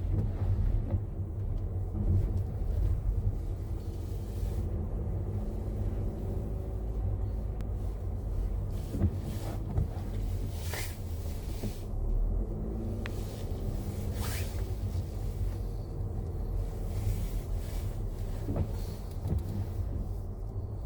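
Car driving: steady low rumble of engine and tyres, with two brief swishes about halfway through.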